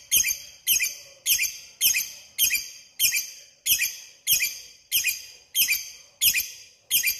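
Lovebird giving a steady series of shrill, high-pitched calls, about one every half second or so, each call starting with a quick upward sweep.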